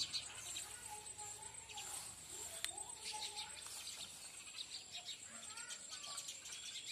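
Birds chirping and twittering, many short high calls, over a thin steady high tone.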